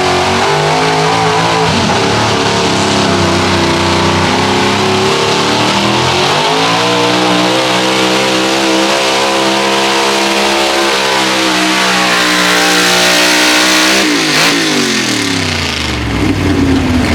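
Competition pickup truck's engine pulling a sled at full throttle: the revs climb about six seconds in and hold high and steady under load, then the throttle comes off about fourteen seconds in and the pitch falls away quickly, as at the end of a pull.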